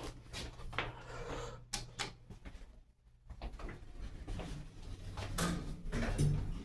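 A few scattered knocks and clicks over a low steady hum, with a quick cluster of them about two seconds in and more near the end.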